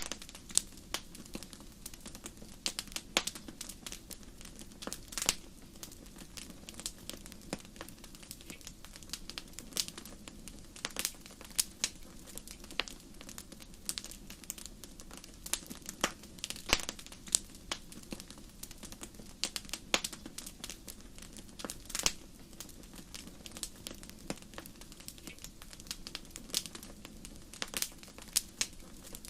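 Wood fire in a fireplace crackling, with irregular sharp pops of varying loudness over a low, steady rumble of the burning.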